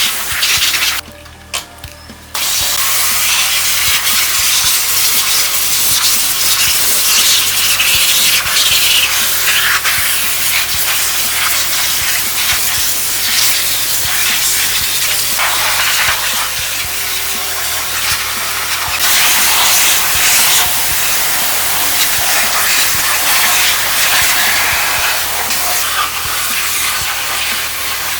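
A loud, steady spraying hiss that cuts out for about a second near the start, then resumes and carries on, over background music.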